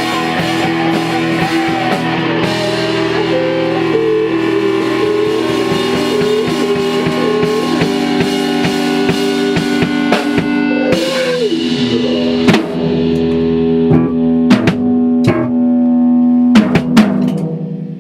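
Band playing in rehearsal, with guitars and a drum kit. Near the end it closes on a held chord under a run of heavy drum and cymbal hits, then rings out.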